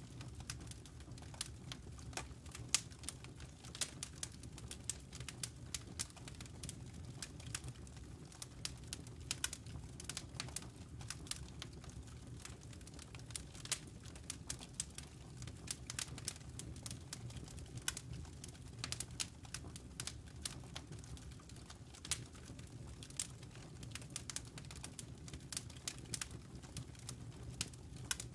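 Campfire crackling: irregular sharp pops and snaps from burning wood and embers, several a second, over a low steady rumble.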